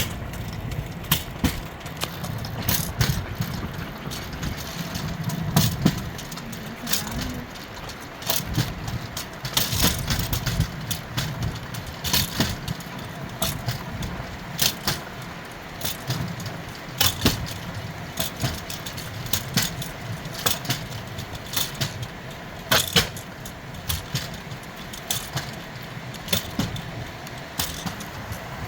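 Rail bike rolling along old railroad track on steel wheels: a steady low rumble with frequent sharp clicks and rattles, about one or two a second at irregular spacing.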